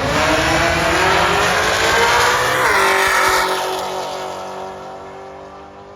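Race car engine accelerating hard, its pitch rising, then dropping sharply as it goes past and fading away down the track.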